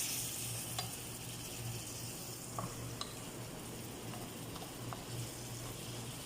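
Shrimp frying in butter and garlic in a pan, sizzling steadily, with a few light clicks and a low hum underneath.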